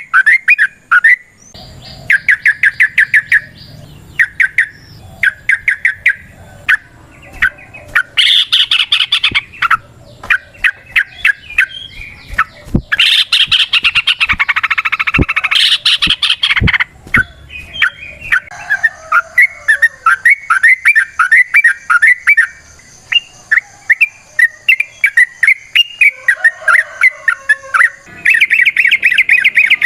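Yellow-vented bulbul (trucukan) calling in loud, rapid chattering runs of short notes, burst after burst, with a denser, louder chatter about halfway through.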